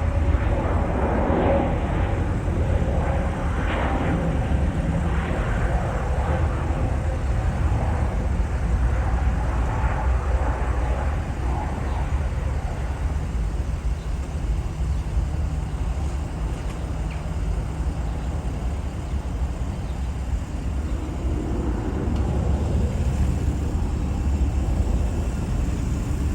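Jet airliner engines running, a steady low rumble with a rushing noise that eases a little in the middle and swells again near the end.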